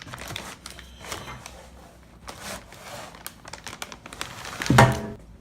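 Packing material being pulled and handled: irregular crinkling, rustling and tearing of wrap as the exhaust pipe is lifted out of its box, with one short loud pitched sound near the end.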